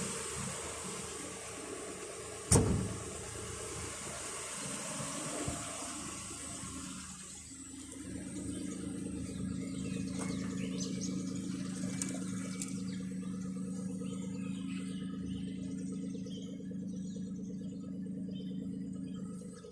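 Nissan Skyline R33's RB20E straight-six idling. For the first several seconds a steady hiss covers it, with one sharp knock about two and a half seconds in. After that the engine's steady low hum is heard plainly.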